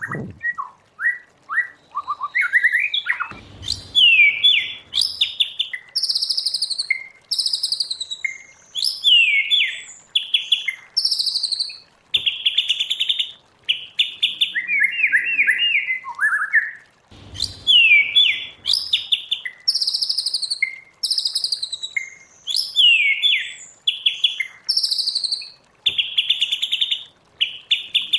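White-rumped shama singing a long, varied song of loud down-slurred whistles and rapid runs of repeated notes, in wild-bird style. The same song sequence comes round again about 14 seconds later, as in a looped training recording.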